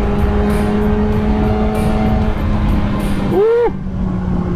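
Kawasaki ZX-6R inline-four running through a Race Fit Growler exhaust, heard from the rider's seat with wind noise. It holds a steady note, then about three seconds in gives a quick rev that rises and falls, and settles at a lower pitch.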